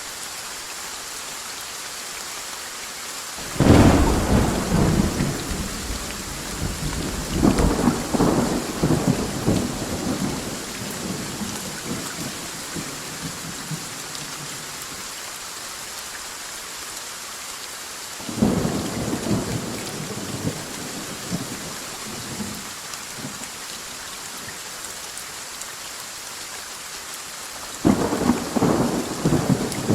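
Steady rain with three peals of thunder. The loudest cracks about three and a half seconds in and rumbles on for several seconds, a second comes around eighteen seconds in, and a third near the end.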